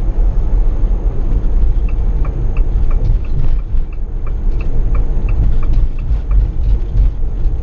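Steady engine and road rumble inside a moving vehicle, with the turn-signal indicator ticking about three times a second from about two seconds in until near the end.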